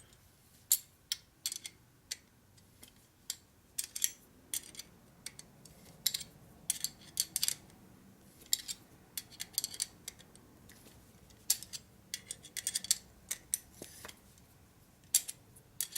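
Irregular sharp metal clicks and clinks of a wrench and nut being worked onto a stubborn chrome fitting, in uneven clusters of a few at a time.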